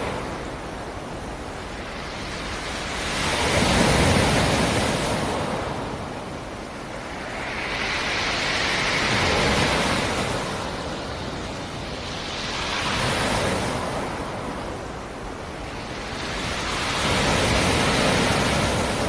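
Black Sea surf: waves rolling in and breaking on the shore, four surges each swelling up and washing back about every four to five seconds.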